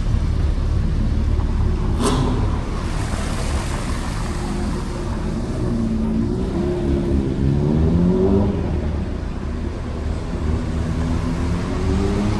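Car engine revving loud and hard, its pitch climbing and dropping, then climbing again near the end, over a constant low rumble. A sharp crack about two seconds in is followed by a few seconds of hiss.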